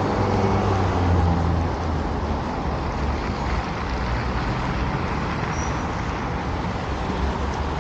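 Street traffic noise: a steady rush of passing road vehicles, with one vehicle's engine hum loudest about a second in.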